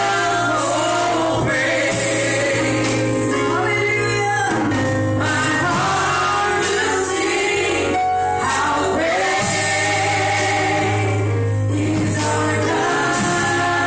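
A congregation or choir singing a gospel worship song with instrumental backing and a sustained bass line.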